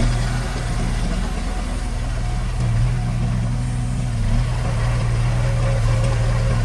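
Heavy construction-machine diesel engine running steadily at a low, even speed.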